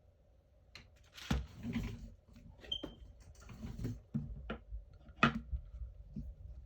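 Small tools and phone parts being handled on a workbench: a series of sharp clicks and taps with rustling in between, the loudest a little over a second in and about five seconds in.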